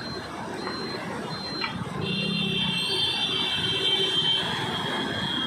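A high-pitched electronic alarm tone, several steady high pitches held together, comes in about two seconds in over a steady rushing background noise. Short high beeps are heard before it.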